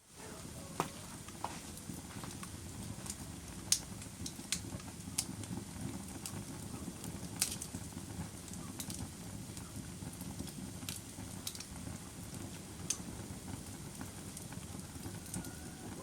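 Fire crackling: a steady low rushing noise with irregular sharp pops and snaps scattered throughout, a few of them much louder than the rest.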